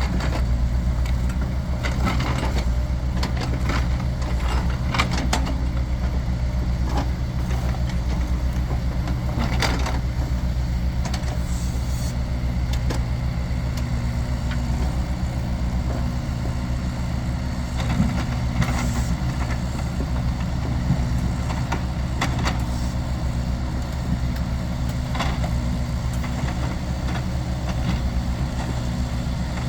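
A large engine idling steadily, with scattered knocks and clunks now and then.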